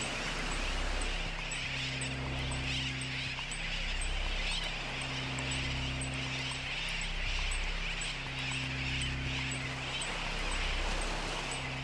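Layered homemade soundtrack. Low sustained tones switch back and forth between two pitches every couple of seconds, and a steady high tick repeats about one and a half times a second. Over them runs a dense, chattering hiss.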